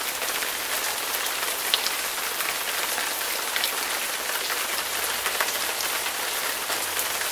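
Steady rain falling: an even hiss with scattered ticks of individual drops, cutting off suddenly at the end.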